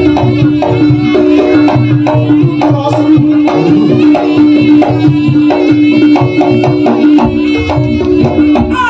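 Javanese jaranan gamelan music played live: kendang hand drums beating a busy rhythm under a long held note.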